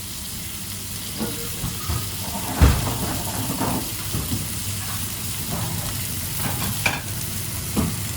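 Food sizzling as it fries in a busy kitchen, with a steady hiss, broken by scattered knocks and clinks of pans and utensils. The loudest is a thump about two and a half seconds in.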